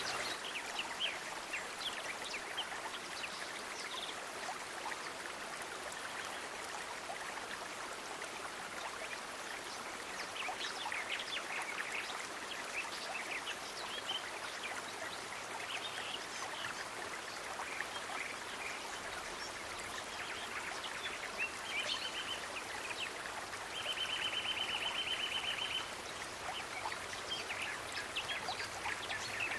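Nature ambience: a steady hiss of running water with many short, high bird chirps scattered through it, and a fast, even trill lasting about two seconds near the end.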